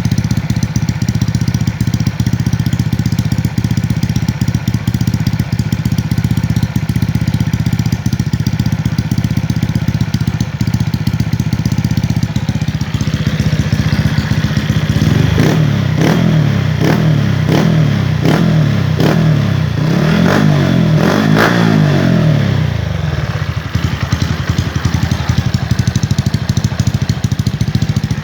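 Motorcycle fitted with a Koo Mahachai aftermarket exhaust, idling steadily. About halfway in it is revved in a run of quick throttle blips for several seconds, then settles back to idle.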